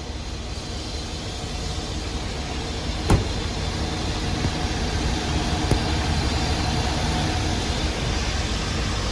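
Steady low rumble of a running vehicle engine, slowly growing louder, with a sharp knock about three seconds in.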